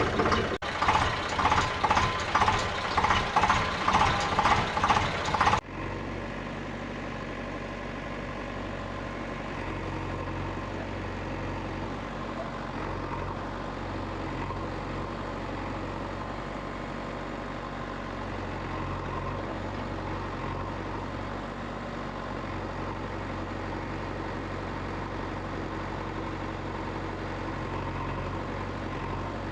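Loud rhythmic pulses, about two a second, cut off abruptly after about five seconds. Then a small motor runs with a steady, even hum.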